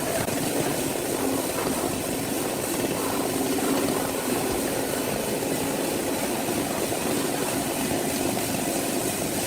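Heavy machinery running with a steady engine drone, holding an even pitch without revving.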